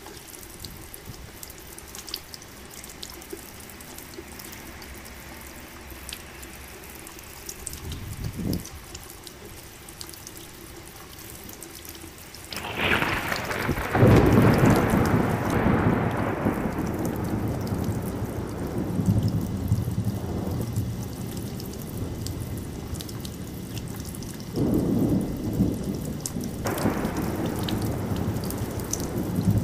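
Steady rain falling, with scattered drips. A brief low rumble comes about 8 s in, then a loud crack of thunder about 13 s in that rolls on and slowly fades, with more rumbles of thunder near the end.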